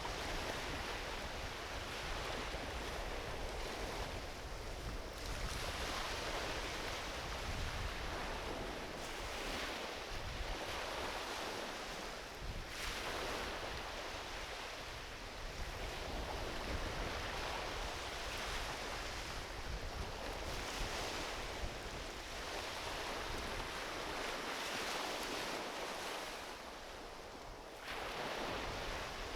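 Small ocean waves washing onto a beach, the surf swelling and easing every few seconds, with a low wind rumble on the microphone.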